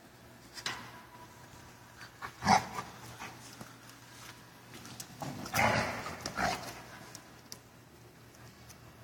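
Dogs at play vocalizing: a few short barks, the loudest about two and a half seconds in, and a cluster of quick barks and growly sounds around five and a half to six and a half seconds.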